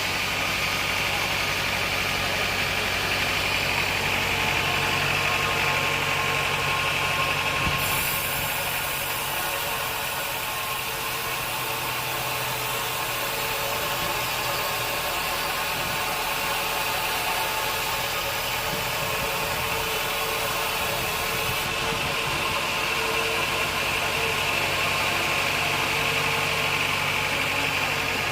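Band sawmill running steadily, its motor humming with a constant high whine. About a quarter of the way in a sharp high hiss starts and holds until about three quarters through, then stops abruptly.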